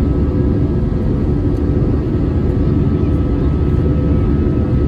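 Airplane engine and airflow noise heard inside the passenger cabin: a loud, steady roar with a few constant hums over it.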